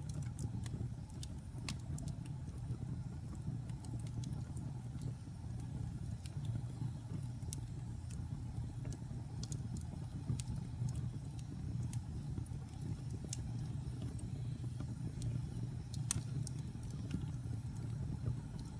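Wood fire burning in a fireplace: a steady low rumble of flames, with scattered sharp crackles and pops from the burning wood, one louder pop near the end.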